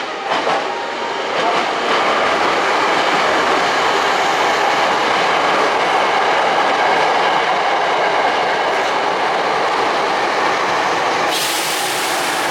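Hankyu Railway resistance-controlled electric train running on the track, wheels clicking over rail joints and then a loud, steady running noise. About eleven seconds in, a sudden high hiss joins the running noise.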